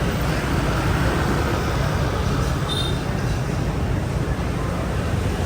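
Steady rumble of a motorbike ride through city traffic, engine and road noise, with a brief high chirp about three seconds in.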